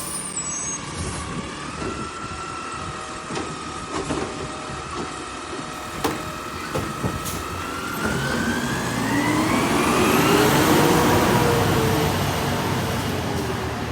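Peterbilt 520 garbage truck with a Labrie Automizer body, running with a steady whine and a few sharp knocks. From about eight seconds in it revs up: the whine rises in pitch, gets louder, then holds high.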